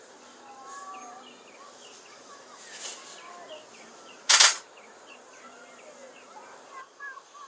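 Small birds chirping over and over in short, quick calls, with one sharp, loud burst of noise about four and a half seconds in.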